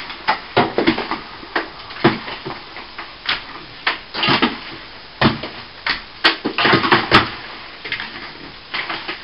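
Irregular knocks and short scrapes of hand tools working at loose old plaster, about a dozen sharp hits spread unevenly with a couple of longer scraping stretches.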